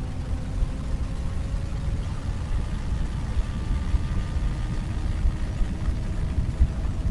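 Wind buffeting the microphone of a riding motorcycle, louder than the Benelli BN600i's inline-four engine, which runs faintly beneath it with a nearly steady note that shifts a little in pitch.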